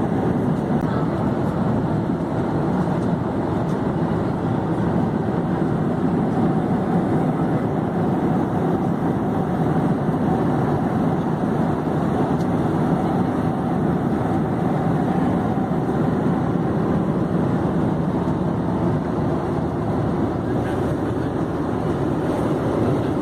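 Airplane in flight: a steady, unchanging rushing drone of engine and airflow noise.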